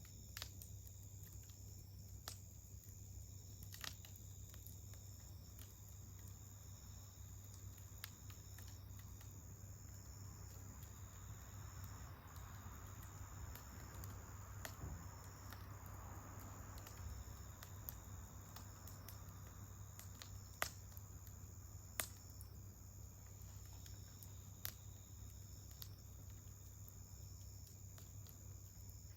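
Wood campfire crackling faintly, with sharp pops at irregular intervals, the two loudest about two-thirds through. Under it, a steady high trilling of insects.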